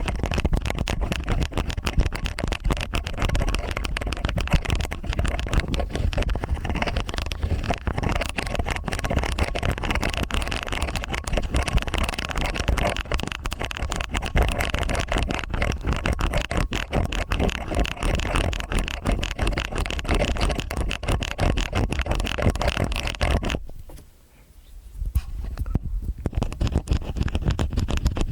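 Two stainless steel ear picks scratching and scraping inside both ears at once, a dense run of crackly scrapes and small clicks, with a short pause near the end before the scraping starts again.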